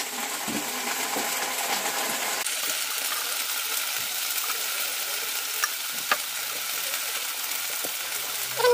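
Potatoes and flat beans frying in oil in a kadai, a steady sizzle as ground spices are sprinkled over them. A couple of light clicks about six seconds in.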